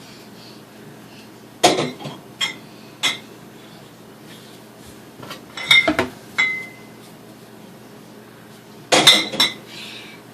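Beers being set into a fridge, clinking and knocking against each other and the shelves, in three bunches of a few sharp clinks each; one clink leaves a short ringing tone.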